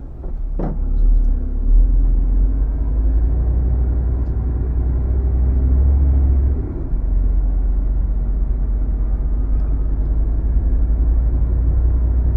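HGV tractor unit's diesel engine running while the lorry moves slowly, a steady low rumble. The rumble drops briefly about six and a half seconds in.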